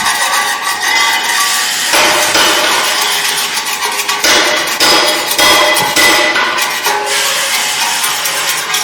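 Commercial spice pulverizer running: a loud, continuous metallic clatter of rapid knocks over a dense rushing noise.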